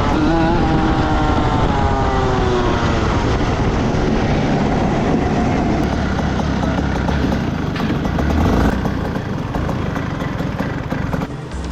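Rotax Max 125 two-stroke single-cylinder kart engine running, its pitch rising and falling over the first few seconds before settling into a denser, rougher sound.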